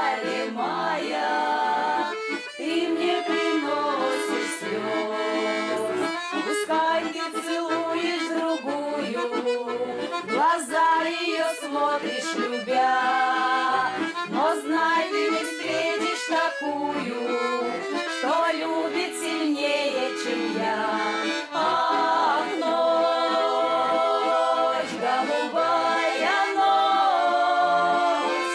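Accordion playing the song's melody over sustained chords as an instrumental break between sung verses.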